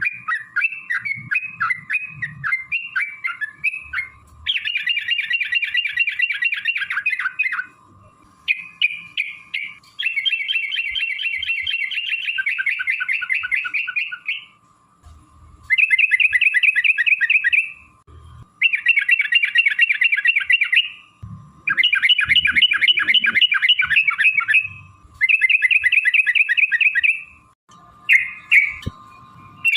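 Yellow-vented bulbul (trucukan) singing: a string of separate chirps at first, then repeated bursts of fast rolling notes, each a few seconds long, with short pauses between them.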